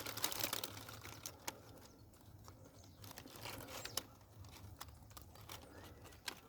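Faint rustling and crackling of dry brush, with scattered short sharp clicks.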